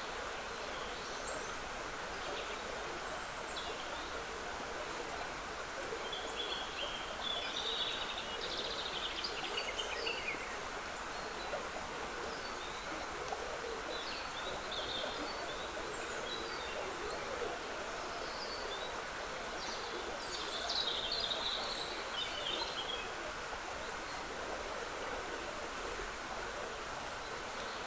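Steady trickling of a small woodland stream, with birds singing in short high phrases over it several times, busiest around a quarter, half and three quarters of the way through.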